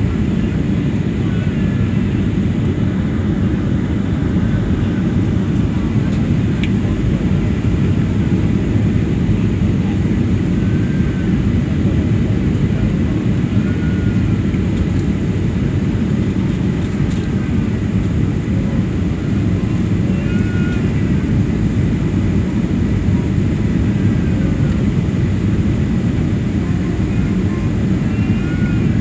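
Airliner cabin noise during the approach to landing: a steady, even rumble of engines and airflow heard from inside the plane.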